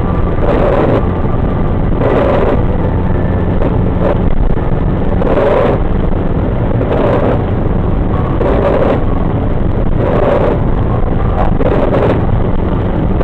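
Car driving on an expressway in a heavy rainstorm, heard from inside: a steady, loud rumble of road and rain noise, with a short swish repeating about every second and a half.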